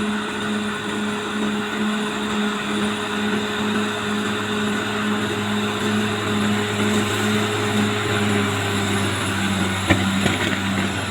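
Caterpillar D6R XL bulldozer's diesel engine running steadily, with a sharp knock near the end.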